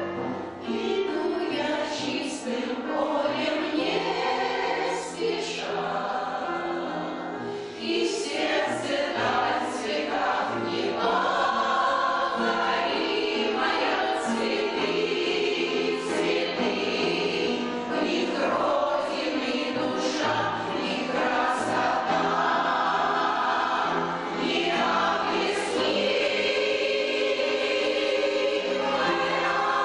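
A veterans' amateur choir singing a song in Russian in chorus, without pause.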